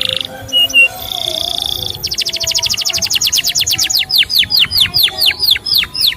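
Male canary singing: a short buzzy note, then a fast trill of about a dozen notes a second, then a run of slower falling whistles about four a second.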